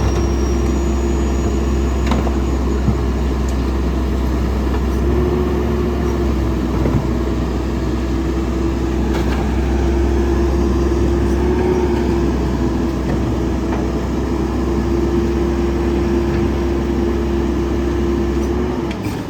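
Garbage truck running steadily, a low engine rumble with a constant whine over it, typical of the hydraulics working the packer. Both cut off sharply near the end and the sound drops away.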